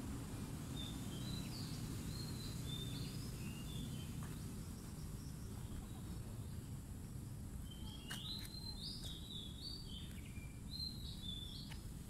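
A bird singing two runs of short, clear, high whistled notes, the second run starting about eight seconds in, over a steady low background rumble.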